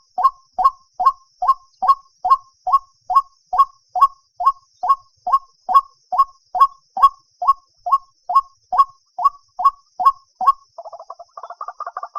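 White-breasted waterhen calling: a long, even series of short calls, a little over two a second, that breaks near the end into a faster, quieter chattering run. It is the March breeding-season call used as a lure for netting the birds at night.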